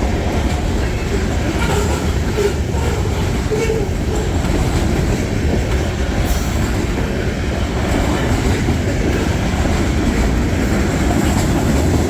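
Freight train rolling past at track side: a loud, steady rumble of steel wheels on the rails.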